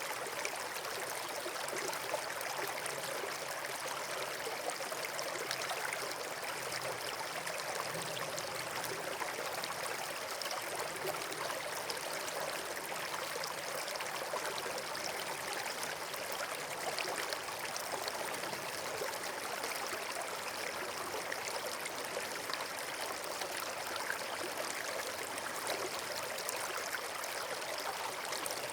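Steady rush of flowing water, an even hiss that never pauses or changes.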